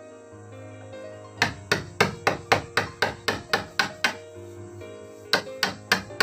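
Hammer blows struck in quick runs, about four a second, starting about a second and a half in, pausing briefly, then resuming near the end, over background music.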